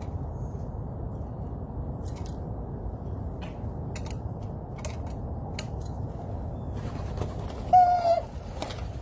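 A single short, loud bird call with a steady pitch about a second before the end, over a steady low background rumble with scattered light clicks.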